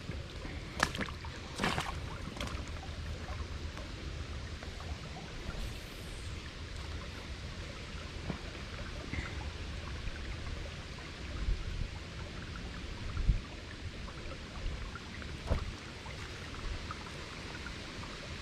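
Creek water flowing and trickling steadily, with a few scattered clicks and knocks near the start and again later on.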